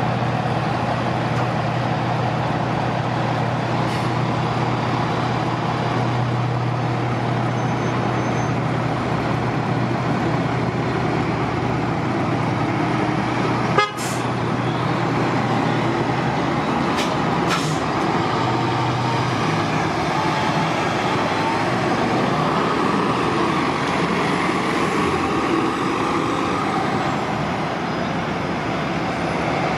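City transit buses' diesel engines running at a bus terminal, a steady low engine hum with traffic noise around it, and a single sharp click about halfway through.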